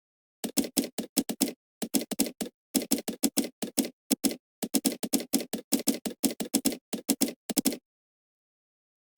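Typing on a computer keyboard: runs of quick keystrokes broken by short pauses. It stops about a second and a half before the end, then one last key.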